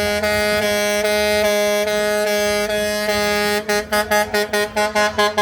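Truck air horn sounding a single held note for about three and a half seconds, then blown in rapid short blasts.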